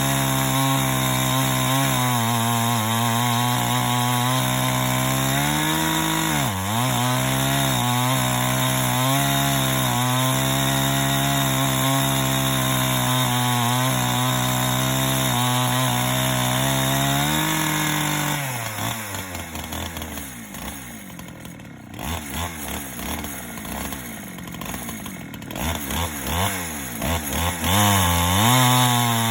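Chainsaw on a portable chainsaw mill, running hard and cutting lengthwise through a log into a plank. Its note sags briefly a few seconds in. About two-thirds of the way through, the engine drops to a low, uneven idle with a few blips, then revs back up near the end.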